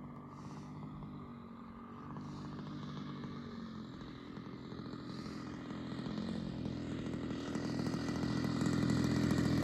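Engine of a large radio-controlled Cessna 195 model plane buzzing in flight as it is brought in, its pitch shifting a few times with the throttle and growing steadily louder as the plane approaches.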